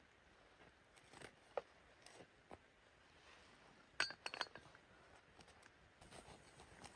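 Faint, scattered small clicks and clinks, with a quick cluster of sharper ones about four seconds in.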